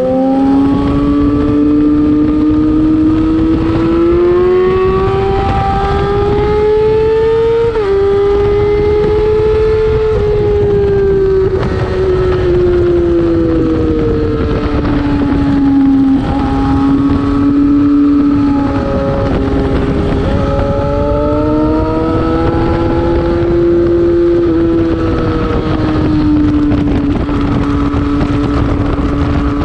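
2008 Yamaha R6's inline-four engine at high revs on a race track, its pitch climbing steadily, dropping sharply with gear changes about eight and twelve seconds in, falling under braking, then climbing again and levelling off near the end. A steady rush of wind noise runs underneath.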